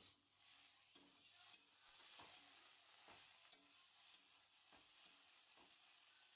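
Faint sizzling of food frying in a pan, with a spatula scraping and stirring about once a second.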